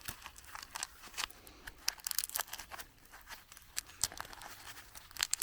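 Wood fire crackling and popping with irregular sharp snaps.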